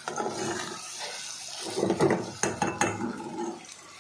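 Chicken pieces sizzling in hot oil and masala in a metal saucepan while a metal ladle stirs them, knocking against the pot several times about two to three seconds in.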